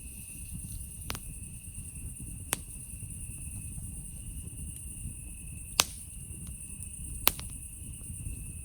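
Campfire crackling with a low steady rumble and four sharp pops, loudest at about 6 and 7 seconds in. Night insects chirr steadily in two high, unbroken tones behind it.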